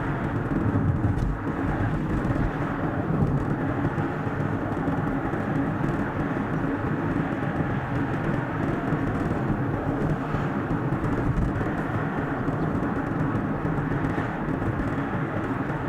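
Car driving along a road: steady road and engine noise with no let-up, sped up to double speed.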